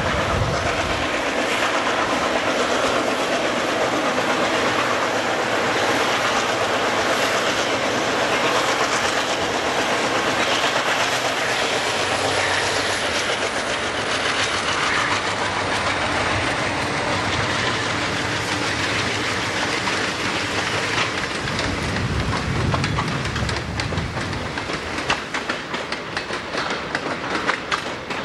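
Freight train rolling past at close range behind Canadian Pacific diesel locomotives, with a steady rumble and clatter of steel wheels on rail. Sharper wheel clicks over rail joints stand out near the end as intermodal cars go by.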